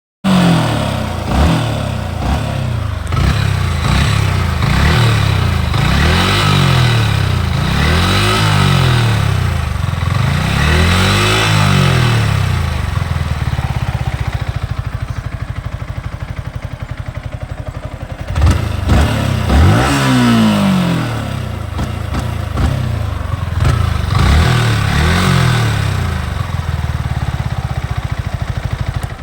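Yamaha R15 V4's 155 cc liquid-cooled single-cylinder engine, warmed up, being revved repeatedly with the throttle and dropping back each time. It settles to idle about halfway through, then is revved again. The owner hears an unusual noise from it only once it is hot and cannot say what it is.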